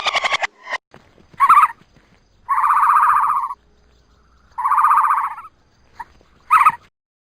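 An animal calling: a short call, then two buzzy calls of about a second each, then another short call.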